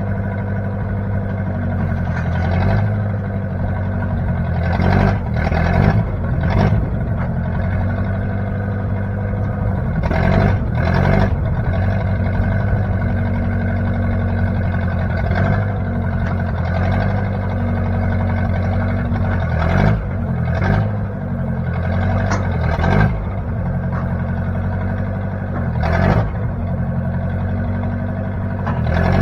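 1960 Case 540 backhoe's engine running steadily, with several short clanks and knocks from the machine scattered through.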